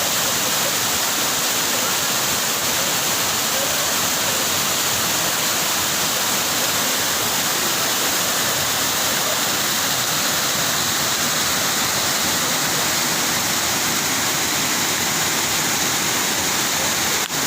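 Steady, loud rushing water, an unbroken roar of white-water noise, with one very brief drop-out near the end.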